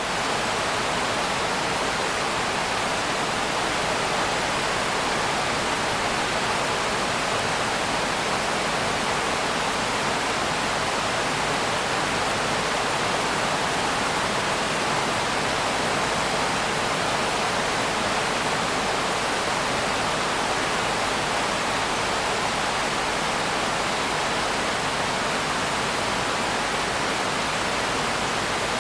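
Steady rain: a constant, even hiss of rainfall with no single drops, thunder or change in strength.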